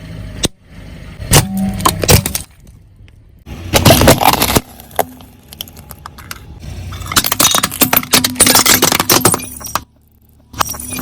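Brittle objects crunching and cracking as they are crushed under a car's tyre, in bursts: a few sharp cracks, a loud crunch about four seconds in, then a long run of dense crackling that cuts off near the end and starts again.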